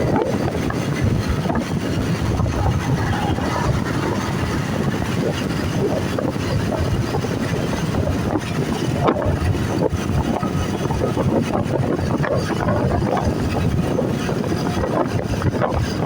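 A vehicle on the move: steady low engine and road rumble, with wind buffeting the microphone.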